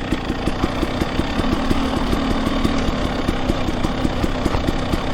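Two-stroke dirt bike engine running at a steady, fairly low speed, with a regular pulsing several times a second, picked up by a microphone inside the rider's helmet.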